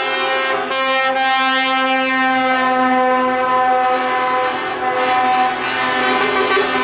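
Truck air horns sounding continuously: several held horn tones at different pitches overlap, with a new one joining about a second in and another near the end.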